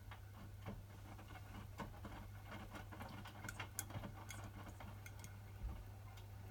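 Hotpoint WMFUG 942 washing machine running mid-wash: a steady low hum with irregular light clicks and patter from the drum.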